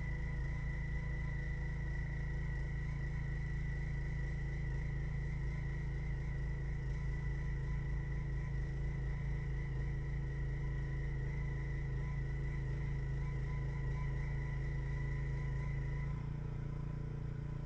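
A steady machine drone: a strong low hum with a thin high whine over it. About sixteen seconds in, the whine drops out and the hum shifts.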